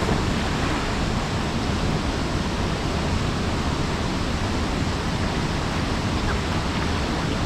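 Waterfall and river water rushing steadily, a loud, even wash of noise with no breaks.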